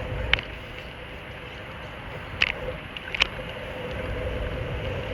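Bicycle riding along a park path: a steady low rumble of wind and tyre noise, with three short sharp clicks or rattles, near the start and twice in the middle.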